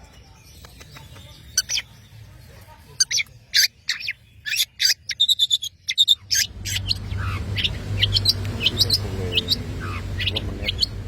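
Long-tailed shrike (cendet) calling: a run of short, sharp, high chirps, some in quick clusters. A steady low hum comes in about six seconds in and stays under the calls.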